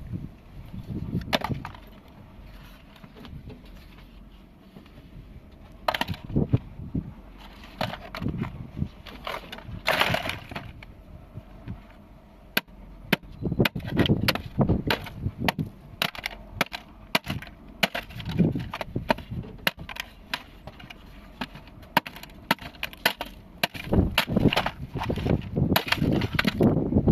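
A small electrical appliance being smashed and broken apart: irregular sharp knocks and cracks, sparse at first and coming thick and fast from about halfway through.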